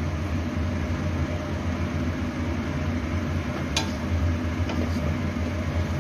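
A steady low hum of kitchen background noise, with a spoon clicking twice against the pot as pulao rice is stirred, a little past halfway.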